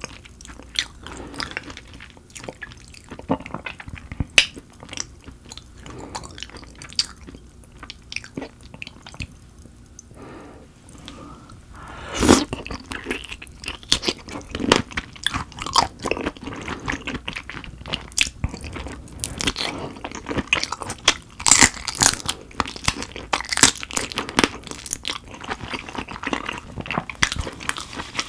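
Close-miked biting and chewing of peeled raw dohwa shrimp: many short wet mouth clicks, sparse at first, then one loud bite about twelve seconds in and busier chewing after it.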